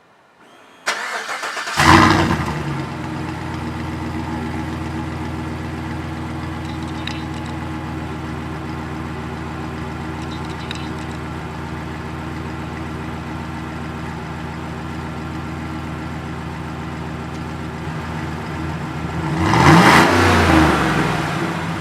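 Chevy Silverado 1500's 5.3-litre V8 exhaust through a Stainless Works Turbo-S muffler, with the resonator and flapper valve deleted. The starter cranks briefly, the engine catches with a loud flare about two seconds in, settles into a steady idle, then is revved once near the end and drops back toward idle.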